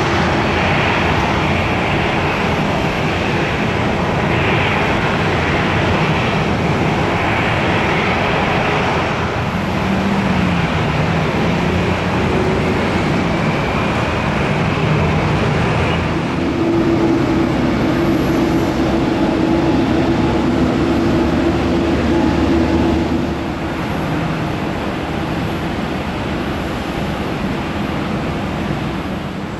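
Frankfurt Airport SkyLine people-mover train running, with an electric drive whine that rises and falls and then holds a steady hum before easing off near the end.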